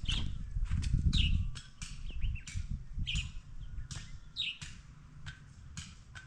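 A bird chirping over and over in short, high notes that drop in pitch, about one or two a second. Under it runs a low rumble, loudest in the first second and a half.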